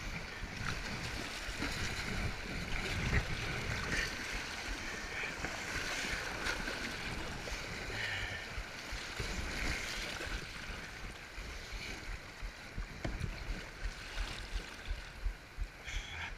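Creek water rushing and splashing around a kayak being paddled downstream, with a steady low rumble and scattered knocks on the microphone.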